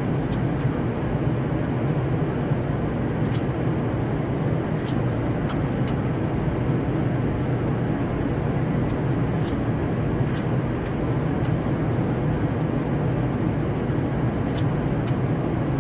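Steady rushing noise inside a Boeing 787-9 flight deck in flight on final approach: airflow and engine sound heard in the cockpit, with a few faint clicks.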